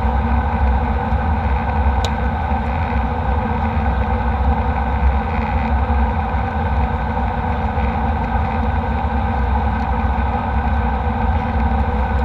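Steady engine drone inside a jet airliner's cabin: a constant low rumble with a fixed hum over it, unchanging throughout.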